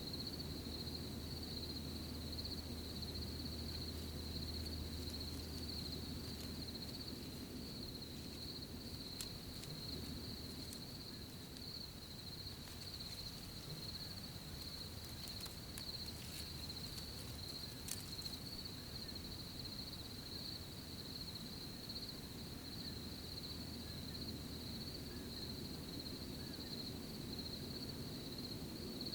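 Crickets chirping in a steady, unbroken high trill, with scattered faint clicks about a third of the way in and a low rumble that comes and goes underneath.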